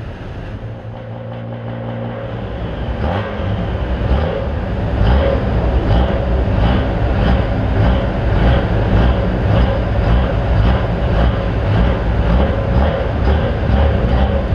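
Pro street diesel pickup truck's engine running under the on-board microphone. It grows louder about three seconds in and settles into a regular pulse a little more than once a second.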